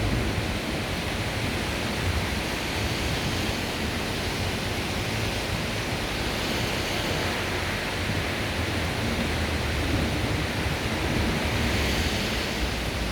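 Heavy downpour of rain pouring steadily, with a low rumble that rises and falls underneath.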